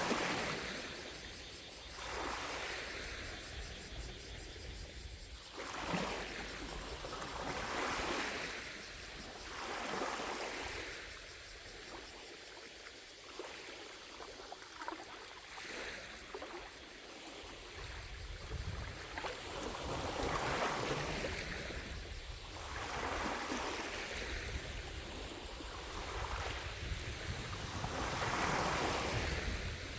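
Small lake waves lapping at the shore, each wash swelling and fading every two seconds or so, over a steady faint drone of distant cicadas. A low rumble comes in about halfway through.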